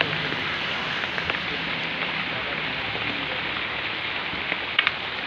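A steady hiss of falling or splashing water, like rain on a surface, with a couple of sharp clicks near the end.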